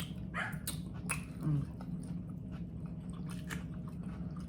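Close-up chewing and biting on pork ribs, with small wet clicks and crunches of eating.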